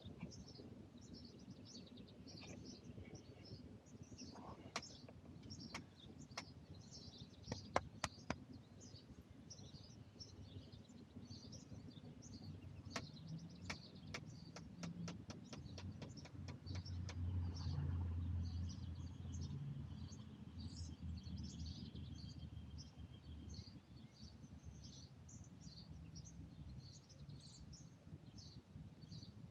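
Many small birds chirping and twittering on and off, high and quick, with a few sharp clicks in the first half and a low rumble a little past the middle.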